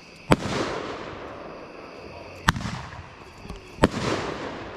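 Three sharp bangs from a 1.5-inch fireworks candle firing shot after shot, spaced about one and a half to two seconds apart, each trailing off in a short rush of echoing noise.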